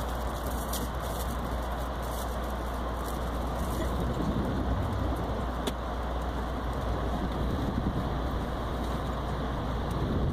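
Amtrak passenger train running at speed, heard from inside the coach: a steady rumble of wheels on rail, getting somewhat louder about halfway through, with a single faint click.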